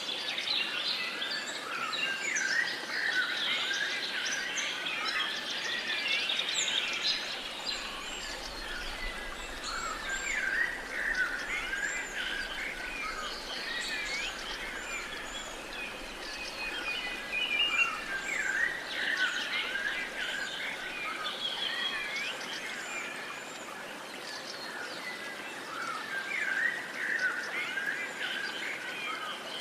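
A chorus of many songbirds chirping and warbling at once over a steady outdoor hiss, with no one bird standing out for long.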